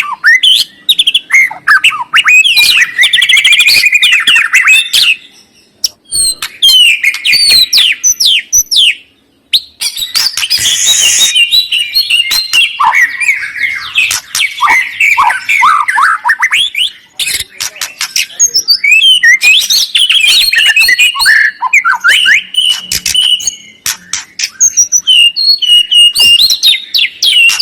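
Songbird singing a fast, varied stream of whistles, trills and chattering notes, loud and nearly continuous, with two short breaks around six and nine seconds in.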